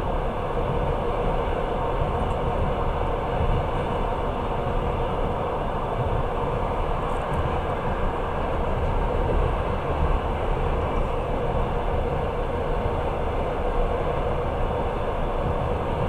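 Passenger train running, heard from inside the carriage: a steady, even noise of the wheels on the rails and the moving car.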